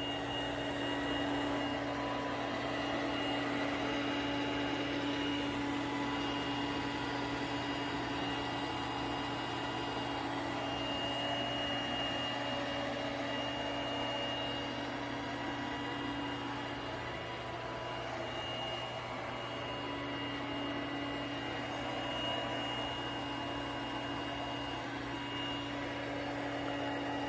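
Roomba Combo 10 Max robot vacuum running on carpet at high suction, a steady motor hum and whine with only small swells as it moves about.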